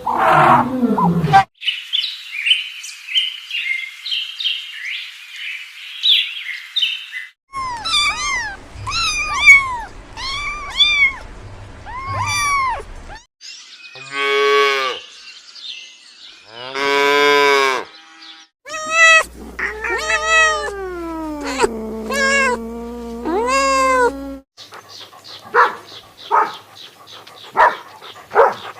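A run of different animal calls cut one after another: a few seconds of dense high chirping, then a string of short repeated calls, then several longer drawn-out calls, one sliding down in pitch, and near the end a patter of short clicky sounds.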